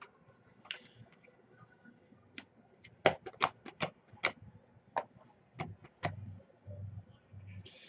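Trading cards and plastic card holders being handled: about ten short sharp clicks and taps, bunched about three to four seconds in.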